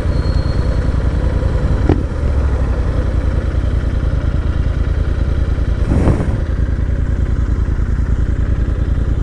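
Royal Enfield GT650's 648 cc parallel-twin engine running steadily through an aftermarket AEW exhaust, with an even low pulsing. Two short knocks break in, about two and six seconds in.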